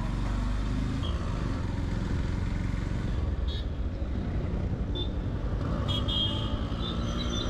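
Yamaha FZ-X motorcycle's single-cylinder engine running steadily while riding along a road, mixed with wind rush.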